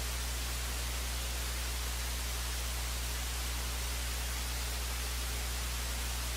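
Steady static hiss with a constant low electrical hum underneath, unchanging throughout: a dead audio feed with no program sound.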